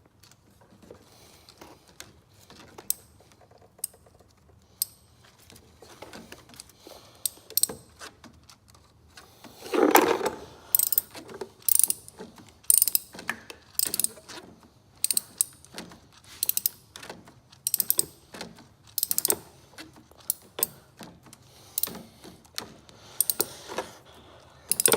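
Ratchet wrench clicking as it is worked back and forth in short strokes, tightening a spark plug down through its hole with a spark plug socket. The clicks are scattered at first, then come in a steady rhythm of short bursts, and there is one louder scrape about ten seconds in.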